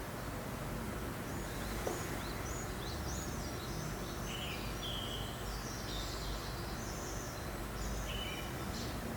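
Small birds chirping in a string of short calls from about two seconds in, over a steady hiss of breeze.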